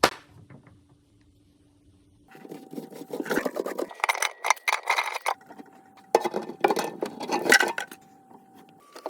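Clinking and rattling of plumbing parts and tools being handled under a kitchen sink, in two busy bursts of a few seconds each after a sharp click and a short quiet spell.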